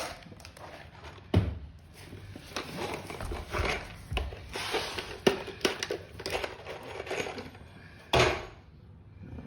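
Irregular knocks, scraping and handling noise from work on loose wooden subfloor boards, with a sharp thud about a second and a half in, another midway and a longer one near the end.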